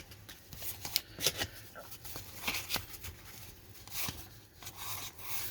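Baseball trading cards being handled and slid against one another: a scatter of light clicks and soft rustles.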